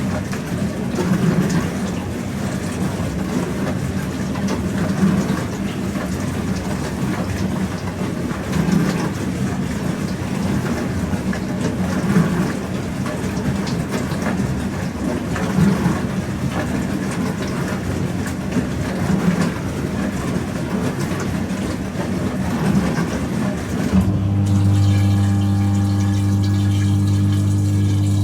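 Pro Action PRSLG96W slimline dishwasher running a wash phase: water sprays inside the tub over a motor hum, swelling in a swish about every three and a half seconds. About 24 seconds in the spraying stops and a pump starts with a steady, louder hum.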